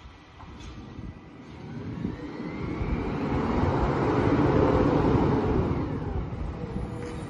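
A vehicle driving past: its engine and tyre noise swell up to a peak about four to five seconds in, then fade away.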